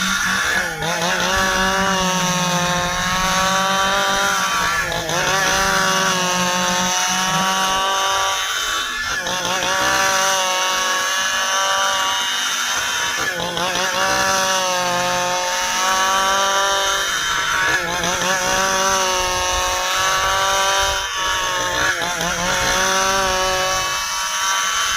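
Stihl chainsaw running at high revs while cutting dry ipê hardwood. Its pitch dips and recovers about every four seconds as the chain bogs under load in the dense wood.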